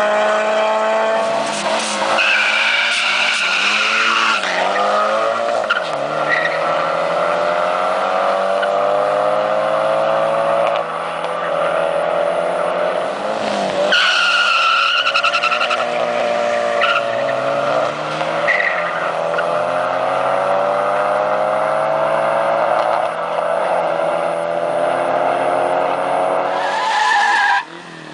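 Drag-racing car engines at full throttle, climbing in pitch and dropping back at each gear change, again and again. A high tyre squeal comes about two seconds in and again about halfway through.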